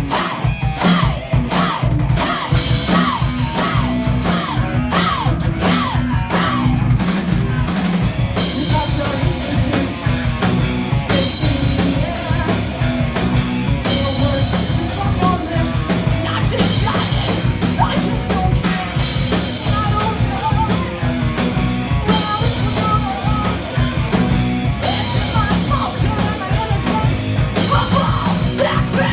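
Live metal band playing loud with drums, distorted guitars and bass, and a vocalist singing and yelling. The sound is thinner for the first seven seconds or so, then the full band comes in heavier with cymbals crashing.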